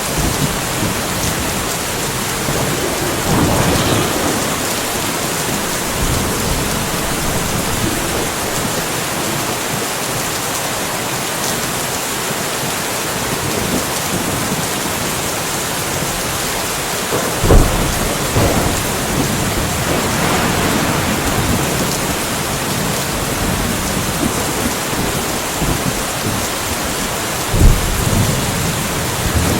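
Steady rain falling in a thunderstorm, with thunder: two sharp close cracks, one a little after halfway and one near the end, and softer rumbles, one early and one about two thirds of the way in.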